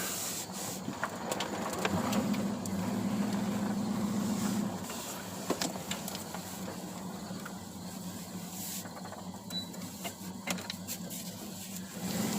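A 1981 Chevrolet Monte Carlo's 355 small-block V8 idling steadily, a little louder for a couple of seconds about two seconds in, with scattered sharp clicks over it.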